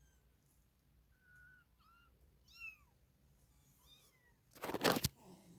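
A cat mewing in short, high-pitched calls, four of them, several falling in pitch. Near the end comes a loud burst of noise lasting about half a second.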